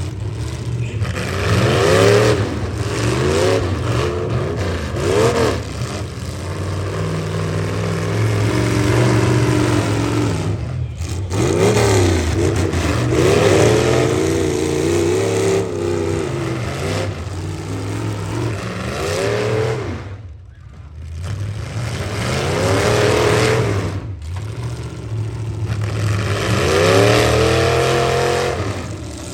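Engines of full-size pickup trucks in a demolition derby, revving hard again and again, each rev rising and falling in pitch. The sound drops briefly about two-thirds of the way through, then the revving picks up again.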